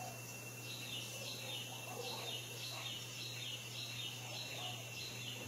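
A bird calling a long series of short falling notes, about two a second, over a steady high whine and a low hum.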